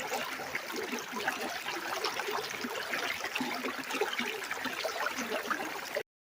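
Small stream of running water trickling and babbling steadily, cutting off suddenly near the end.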